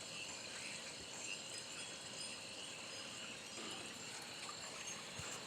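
Chorus of crickets and other insects trilling steadily, with a low rush of wind underneath.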